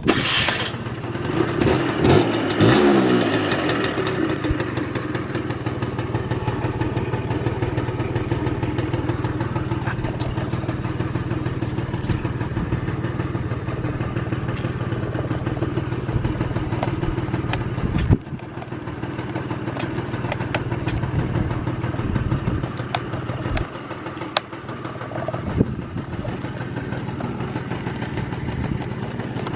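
Suzuki HI-R 50cc two-stroke scooter engine starting from cold. It catches abruptly, revs briefly with a falling pitch, then settles into a steady idle with light ticking and a couple of brief dips. It runs with no abnormal noise.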